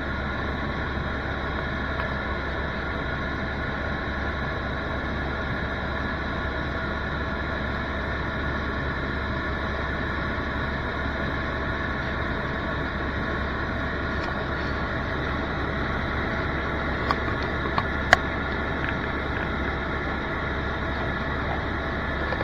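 Helicopter in flight, a steady engine and rotor drone. A few sharp clicks sound about three-quarters of the way through.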